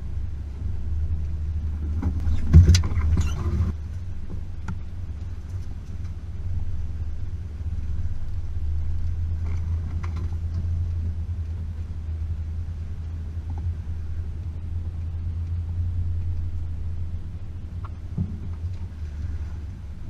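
Range Rover P38's 4.0-litre V8 running under way on an unpaved track: a steady low rumble, with a loud cluster of knocks and rattles about two to four seconds in and a few lighter knocks later on.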